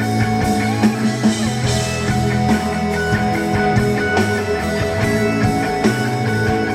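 Live rock band playing with electric guitars, bass and drums, an instrumental passage without singing.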